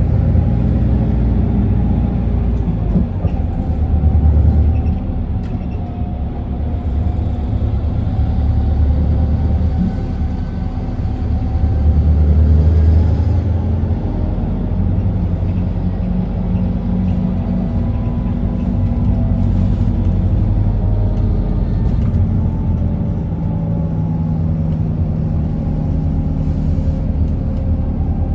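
Interior ride sound of a 2019 Isuzu Erga city bus: its four-cylinder turbodiesel hums under road noise as the bus drives, the engine pitch shifting and the sound swelling about four seconds in and again about twelve seconds in.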